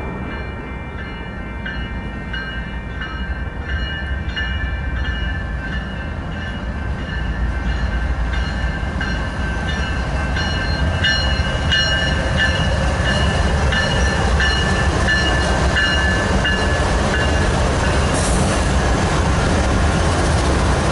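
Union Pacific freight train led by several diesel locomotives approaching and passing close by, its low engine rumble growing steadily louder. A repeating high ringing with regular strikes sounds over it and stops about three-quarters of the way through.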